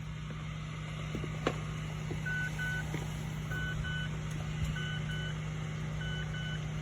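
2022 Mazda CX-3's warning chime beeping in pairs, starting a little over two seconds in and repeating about every second and a quarter, over a steady low hum.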